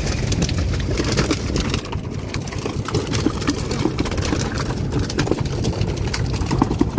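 Boat engine running steadily, with scattered knocks and clatter over it.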